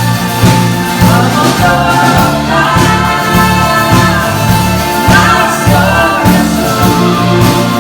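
Live band music with voices singing over instruments and a steady drum beat.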